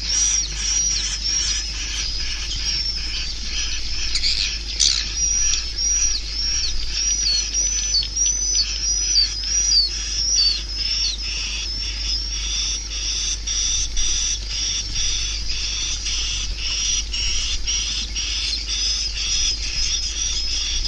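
Swiftlet calls: a steady, rapid train of high chirps repeating several times a second, with many quick downward-sweeping chirps in the first half. This is the kind of swiftlet call sound played to lure swiftlets to a swiftlet house.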